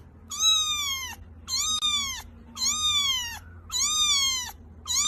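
Cat meowing repeatedly: about five high meows a little over a second apart, each one drawn out and falling in pitch at the end.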